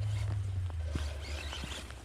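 Scratchy crackling of snow over a steady low rumble, as an electric RC truck runs through snow.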